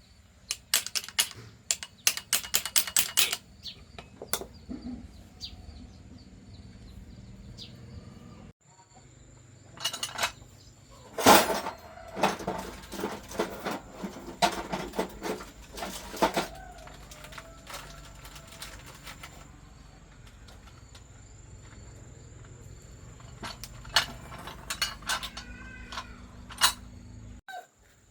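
Repair work on machine parts: clusters of sharp clicks and knocks, over a steady low hum. A few short chirps are heard, the clearest near the end.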